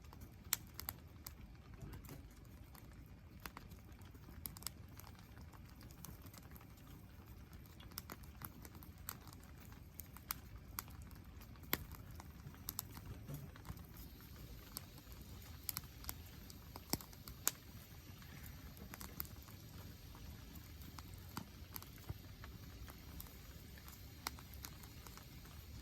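Wood campfire crackling: irregular, sharp pops and snaps over a faint low rumble.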